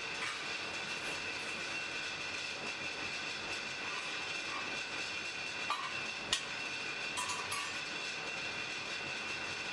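Blacksmith's forge fire burning: a steady rushing hiss with a constant high whine, and a few sharp pops and crackles a little past the middle.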